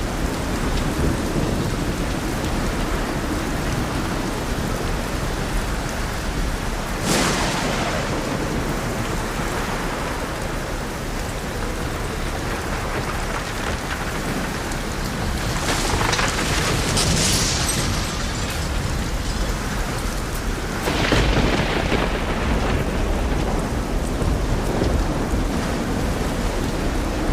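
Thunderstorm: steady light rain with wind, and rolling thunder rumbling underneath. Sharper cracks of thunder come about 7 seconds in and again around 16 and 21 seconds.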